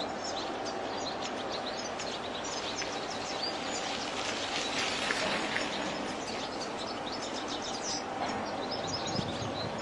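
European goldfinch twittering and chirping, a quick run of short high notes that keeps going with brief pauses, over a steady background hiss.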